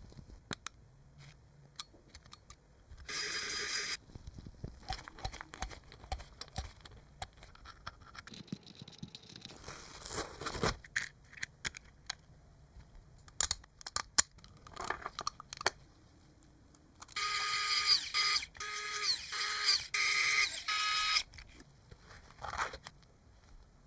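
Small parts clicking and scraping as they are handled, with short bursts of a small motor whining: once briefly about three seconds in, then several times in a row near the end.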